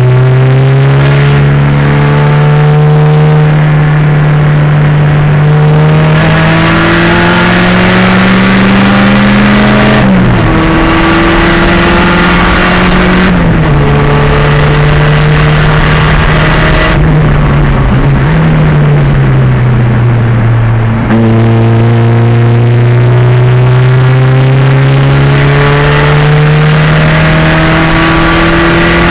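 Pontiac Fiero race car's turbocharged 2.0-litre engine running hard under load. Its pitch climbs slowly through a long pull and drops sharply about ten seconds in. It falls and rises several times through the middle with lifts and gear changes, then climbs again through another long pull.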